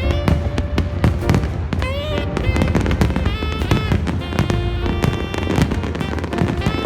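Fireworks display: a rapid series of bangs and crackles from bursting shells, several a second, over loud music with a strong deep bass.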